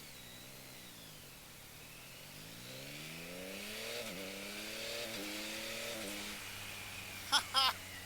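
Motorcycle engine accelerating through the gears: its pitch climbs, dips briefly at each upshift about a second apart, then settles into a steady cruise. Two short high chirps sound near the end.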